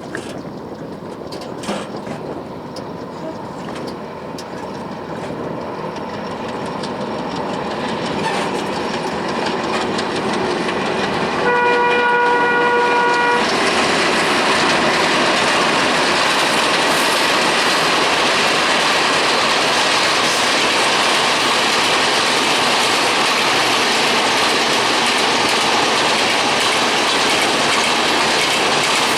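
Sundarban Express diesel passenger train approaching and passing over a rail bridge. It grows steadily louder, gives one horn blast of about two seconds, then its wheels run past with a steady, loud clickety-clack.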